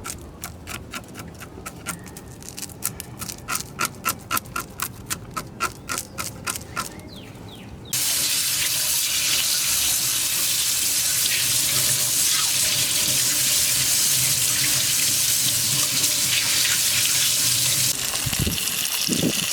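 Rhythmic scraping strokes, about three a second, as a fish is cleaned, then a kitchen tap turned on about eight seconds in and running steadily into the sink, easing slightly near the end.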